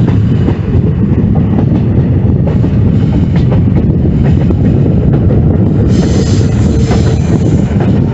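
Passenger train running on the track, a loud steady rumble of wheels on rails with the clicking of rail joints. About six seconds in, a higher hissing sound joins for a couple of seconds.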